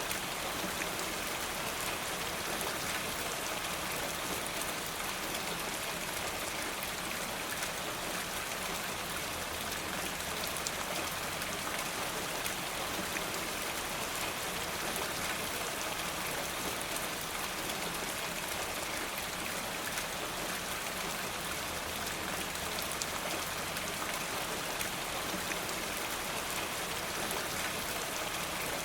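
Steady rain falling, an even wash of noise dotted with small ticks of drops, unchanging throughout.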